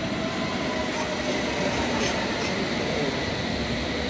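London Underground S stock train coming into the platform and slowing to a stop: a steady rumble of wheels on rail, with a thin whine that slides slowly lower in pitch as it slows.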